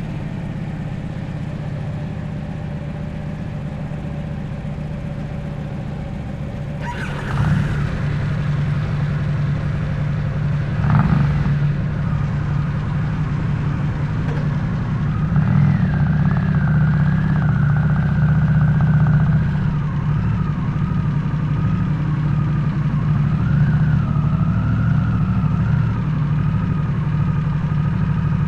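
Harley-Davidson Nightster's V-twin engine running through a Jekill & Hyde valve-controlled exhaust. It runs steadily, then gets louder about seven seconds in, with two brief surges near seven and eleven seconds.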